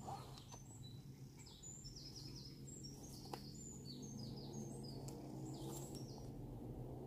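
Wild birds singing: quick runs of short, high, falling chirps, over a steady low hum. A single sharp click about three seconds in.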